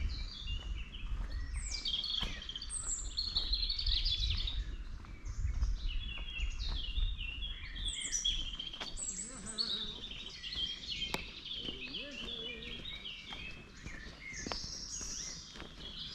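Several songbirds singing at once, overlapping high chirping and warbling phrases, with a low rumble under them for the first half.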